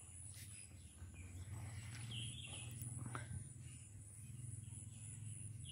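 Faint outdoor ambience: a few scattered bird chirps over a steady low rumble.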